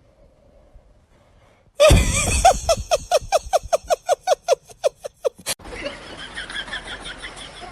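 A voice making a rapid run of short repeated calls, about four a second, starting about two seconds in and cutting off suddenly a little past the middle. After the cut comes a steady hiss with faint high chirps.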